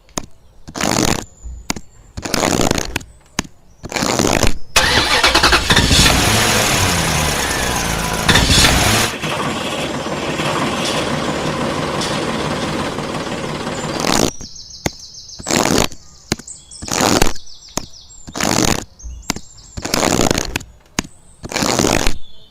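Engine-like sound: short bursts repeating about one or two a second, then roughly nine seconds of continuous running with a shifting pitch, then short bursts again.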